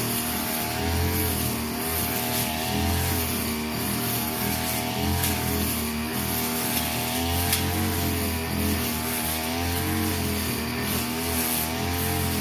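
Brush cutter engine running at high speed while cutting grass, its pitch wavering up and down as the load on the blade changes.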